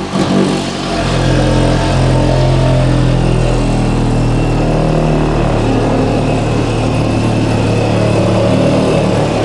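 Power saw switched on and running steadily while it cuts through the wall for a door opening.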